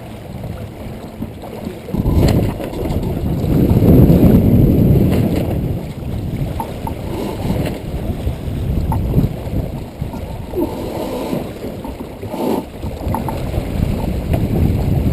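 Wind buffeting the microphone aboard a small sailboat running downwind under spinnaker, with water rushing along the hull. It is loudest for a few seconds about two seconds in.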